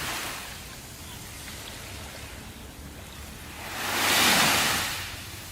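Sea surf: a steady hiss of water, with one wave breaking and washing in about four seconds in, swelling and falling away over about a second.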